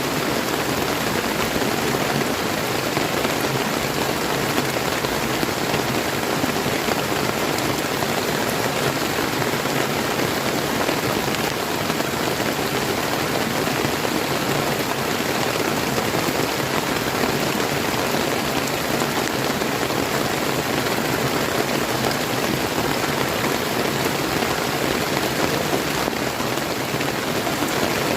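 Steady rain falling, a dense even hiss of drops, mixed with the rush of a clear river stream.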